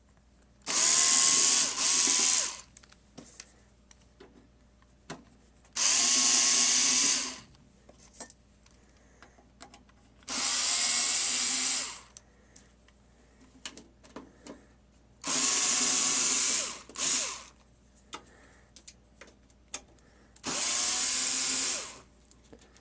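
Power screwdriver spinning out the Torx screws from the back of a DVD recorder's metal case, five short runs of about two seconds each with the motor pitch shifting as each screw backs out, and light clicks of handling between them.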